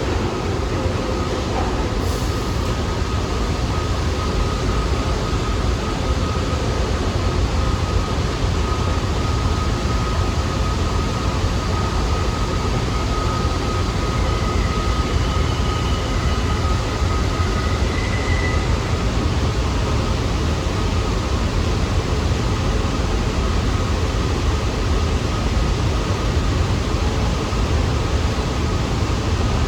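New York City subway train running through the station, with a steady loud rumble and rail noise and a thin steady whine above it.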